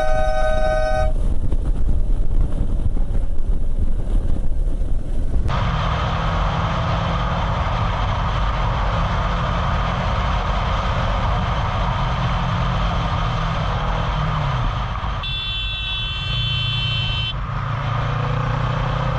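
Vehicle horn honking, cutting off about a second in, over road and wind noise. After that a motor-vehicle engine runs steadily, and a horn honks again for about two seconds near the end.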